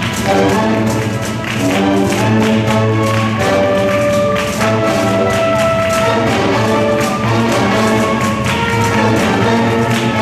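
Live instrumental ensemble music: held melodic notes over a steady percussion beat.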